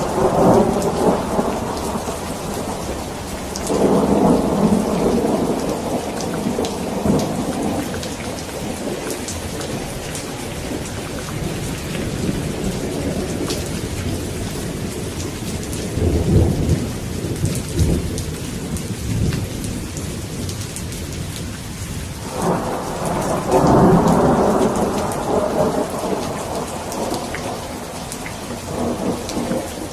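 Steady rain falling with repeated rolling thunder: a rumble at the very start, another about four seconds in, a deeper one around the middle, and a long loud roll about two-thirds of the way through.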